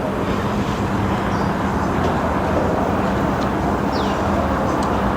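Steady outdoor background rumble with a constant low hum, and a couple of faint, brief high chirps.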